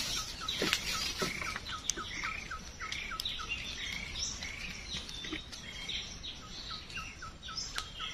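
Forest birds calling: runs of short repeated chirps at about four a second, with other higher calls over them. A few sharp clicks come in between.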